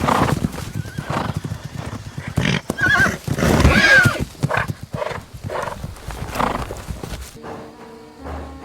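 Horses fighting: hooves thudding and scuffling, with shrill wavering squeals about three and four seconds in. Music takes over near the end.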